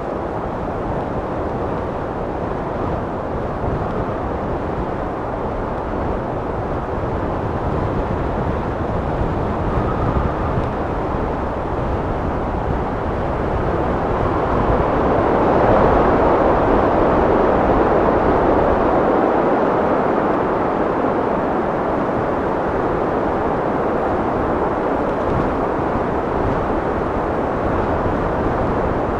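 Wind blowing steadily, swelling into a stronger gust about halfway through and then easing off.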